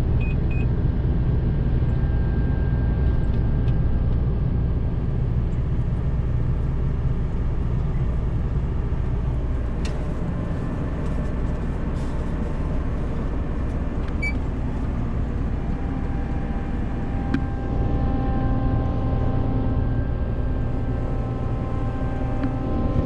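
Combine's diesel engine running steadily with a deep rumble. A few sharp clicks come about halfway through, and a set of higher steady tones joins in about two-thirds of the way through.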